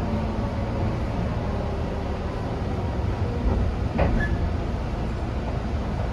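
Tobu 10000-series electric commuter train running, a steady low rumble, with a single short, sharp clank about four seconds in that rings briefly.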